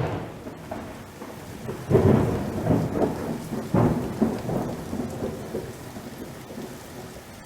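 Rolling thunder over steady rain: loud rumbles at the start, about two seconds in and about four seconds in, then easing off into the rain.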